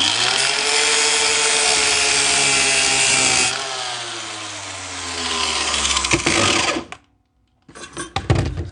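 Handheld electric power tool running with a steady motor whine, its pitch sinking over the following three seconds before it shuts off about seven seconds in. A few short knocks and clatters follow near the end.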